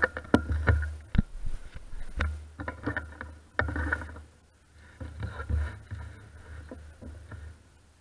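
Rattling clatter and low wind rumble of a bicycle ride picked up by a bike-mounted action camera, with sharp knocks over rough ground; loudest in the first half, easing off after about four seconds.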